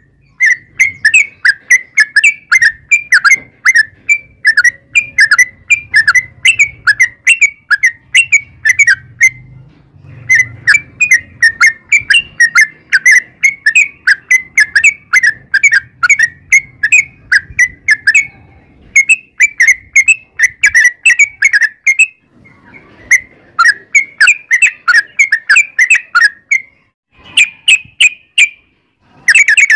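Yellow-vented bulbul (trucukan) singing long rapid runs of loud, repeated chirping notes, about three a second, broken by a few short pauses.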